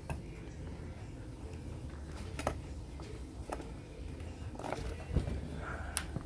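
A few faint, scattered clicks and taps of small hard objects being handled, over a low steady hum.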